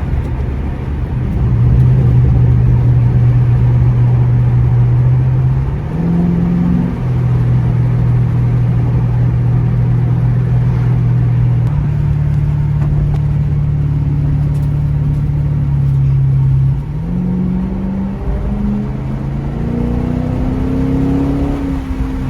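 Engine and exhaust note of a 2006 Ford Mustang with a Roush Extreme axle-back exhaust during a pull, heard with the windows down. It is a loud, deep drone that holds steady for a few seconds at a time, with sudden changes in pitch and level between stretches, and it climbs in steps near the end.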